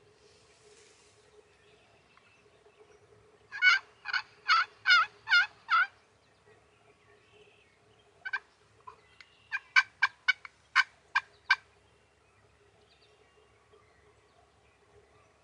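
Turkey calling: a run of six loud yelps, then a single note and a quick string of sharp clucks a few seconds later.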